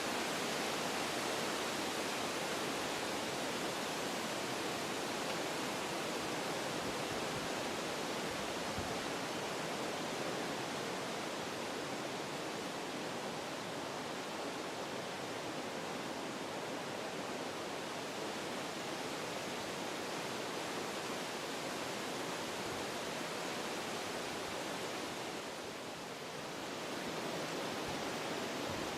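Wind blowing through forest trees: a continuous rushing hiss that eases briefly near the end, then picks up again.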